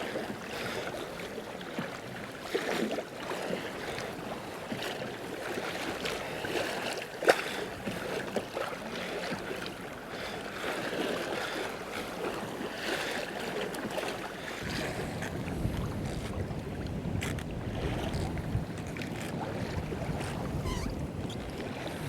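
Waves splashing against a kayak's hull on a choppy sea, with wind on the microphone; a low wind rumble comes in about two-thirds of the way through.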